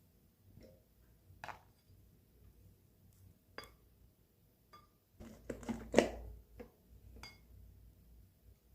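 Light clinks and knocks of dishes and kitchenware being handled: scattered single taps, then a quick cluster of clatter about five to six seconds in, the loudest knock near the middle of it.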